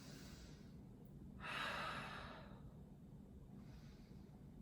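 A person breathing audibly into a close microphone, with one long breathy exhale or inhale about a second and a half in and fainter breaths before and after it.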